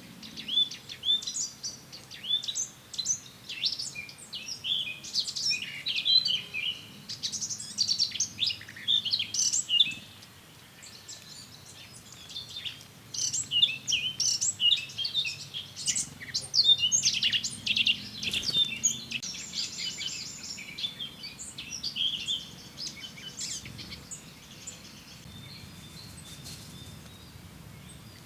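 A chorus of small songbirds chirping and singing, many quick calls and trills overlapping. It eases off briefly about a third of the way through, then picks up again and thins out near the end.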